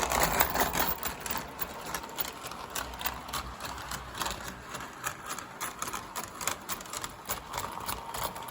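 O gauge model Pennsylvania Railroad locomotive's electric motor running at full throttle under a heavy train, with rapid irregular clicking of the wheels on the track. The motor is straining and doesn't sound great.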